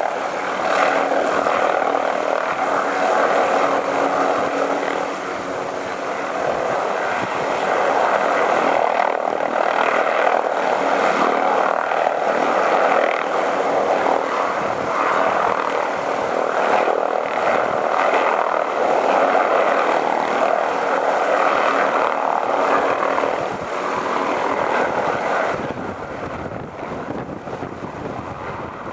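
Helicopter rotor and engine running steadily, growing quieter near the end.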